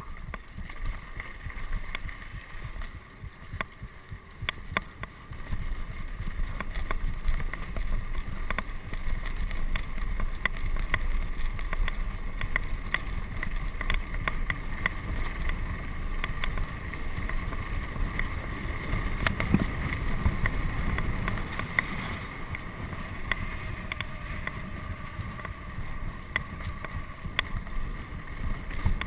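Wind buffeting the microphone, a steady low rumble that grows louder about five seconds in, with scattered sharp clicks and rattles throughout.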